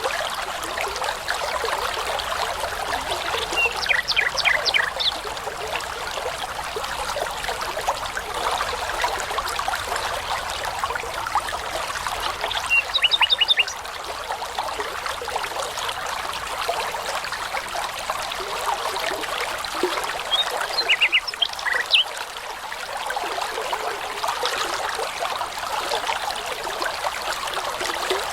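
A shallow brook babbling steadily, with a songbird three times giving a short phrase of rapid repeated high notes.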